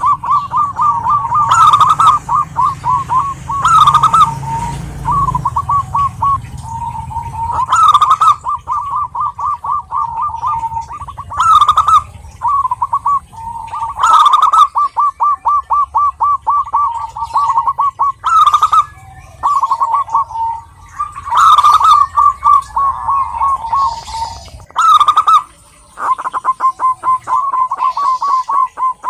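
Zebra doves (perkutut) cooing: phrase after phrase of fast, rattling staccato notes near the same pitch, with short pauses between phrases and some overlapping.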